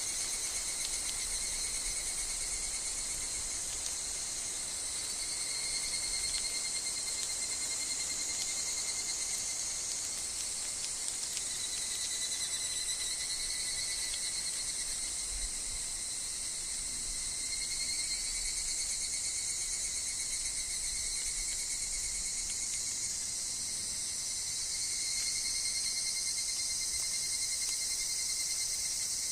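Steady chorus of insects in a forest, several high-pitched trilling voices that swell and ease a little but never stop.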